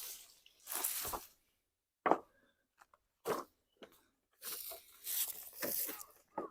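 Irregular crunching and tearing of dry brush and branches being cleared by hand, in uneven bursts of about half a second with short gaps between.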